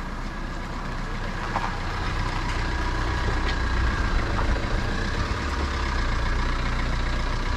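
A boat engine running with a low steady hum that grows louder over the first few seconds, then holds.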